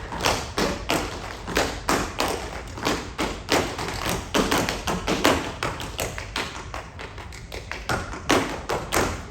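Tap-dance percussion: a quick, irregular run of sharp taps with heavier stomping thuds, several strikes a second, some much louder than others.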